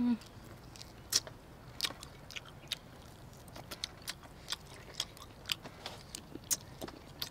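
Close-up eating sounds: crunchy bites and chewing of crispy fried chicken, irregular sharp crunches about one or two a second. A brief sound from a voice comes right at the start.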